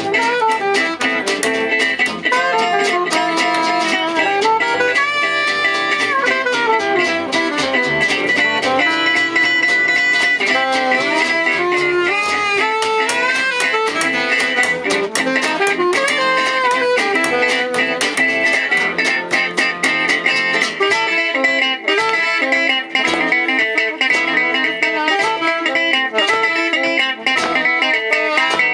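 Live jazz manouche played on guitar: a busy, fast-moving plucked melody over steady plucked-string accompaniment.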